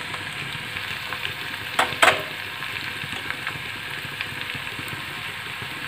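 Onions and tomatoes frying in oil in a frying pan, a steady sizzle. About two seconds in there are two sharp clinks close together.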